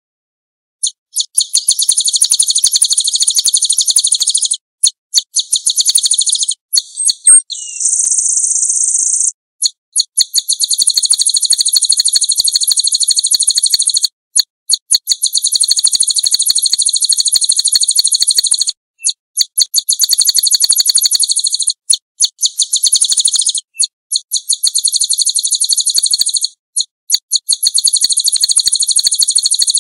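Small songbirds singing very rapid, high trills in stretches of several seconds with short breaks, starting abruptly about a second in, with a steady high buzz a quarter of the way through. It is an edited bird-tutoring (masteran) song recording for training a white-eye.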